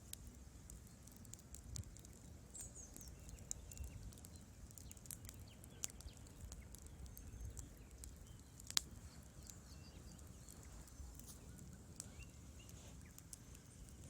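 Wood logs burning in a fireplace, crackling with scattered sharp pops over a low rumble of flame; the loudest pop comes a little under nine seconds in.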